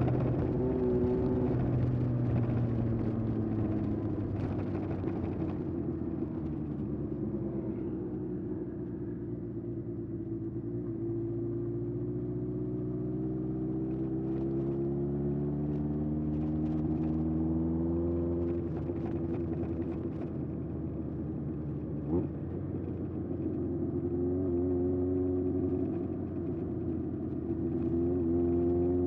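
Air-cooled inline-four of a 1981 Honda CB750F running through a period Yoshimura exhaust while being ridden. Its pitch drops off in the first few seconds, climbs steadily for several seconds as the bike accelerates, then rises again near the end, with one sharp click about two-thirds of the way through.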